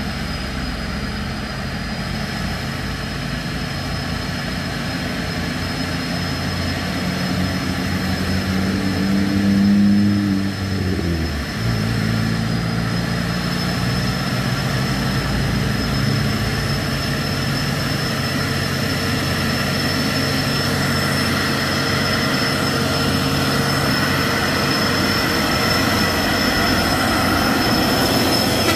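Heavy diesel truck engine labouring under load up a steep grade, towing another truck. Its pitch climbs to a peak about ten seconds in, drops sharply, then runs steadily again. A thin, steady high whine runs beneath.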